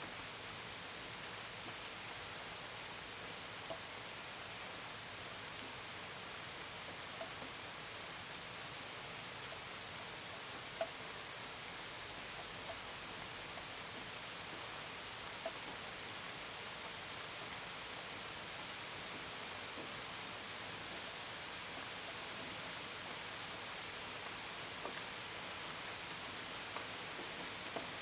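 Steady gentle rain hiss with a few separate drops tapping, the sharpest about eleven seconds in. Crickets chirp high and evenly in short repeated trills throughout.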